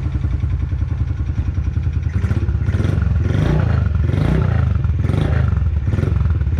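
Honda CRF50F's small air-cooled single-cylinder four-stroke engine idling on choke while warming up after a cold start, running nice and quiet. From about two seconds in there is a series of short swells in the sound, roughly one a second.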